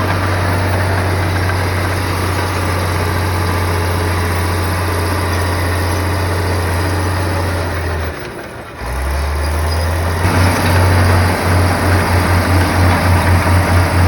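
Komatsu bulldozer's diesel engine running with a steady low drone. It drops away briefly just after eight seconds, then comes back with an even pulsing throb, about five beats a second, from about ten seconds on.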